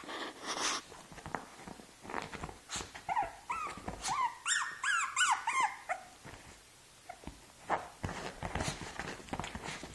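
Two-month-old Shih Tzu puppy crying in a quick run of about a dozen short, high-pitched yelps, from about three to six seconds in, as an older puppy tries to play with it. Short scuffling noises come before and after.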